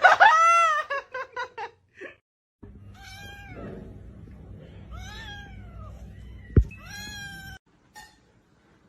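Domestic cat meowing: a loud meow at the start followed by a few short quick calls, then three drawn-out meows about two seconds apart over a steady low hum. There is a sharp thump just before the last meow.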